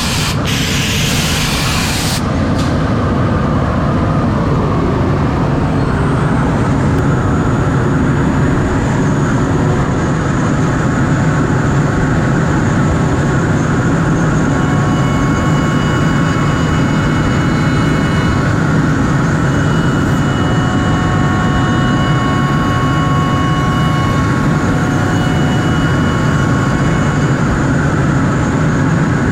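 CNC router milling beech boards: a steady, loud machine noise with a short hissing burst in the first two seconds. Several high whining tones come and go through the second half.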